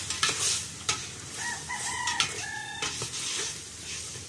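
Chicken pieces sizzling in a pot while a utensil stirs them, knocking against the pot a few times. A rooster crows in the middle, for about a second and a half.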